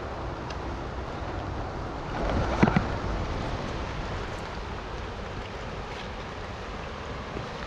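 Steady rushing of river water. About two and a half seconds in there is a short, louder swell of noise with two sharp clicks, and a few faint taps are scattered through it.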